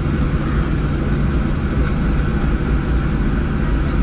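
Steady cabin drone of a Boeing 737-700 with its CFM56 turbofan engines running: a low rumble with a hum and a few faint higher whining tones held at an even level.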